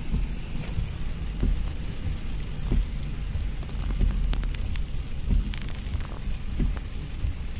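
Heavy rain beating on a car's windscreen and roof from inside the cabin, with scattered sharp taps of single drops over the steady low rumble of the car driving on a wet road.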